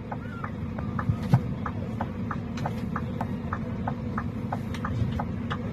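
Steady low vehicle rumble, like an idling engine, with a light regular ticking about three times a second.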